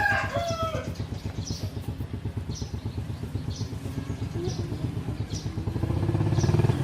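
A small engine running with a steady, rapid pulsing beat, getting louder about six seconds in. The tail of a rooster's crow fades out at the very start.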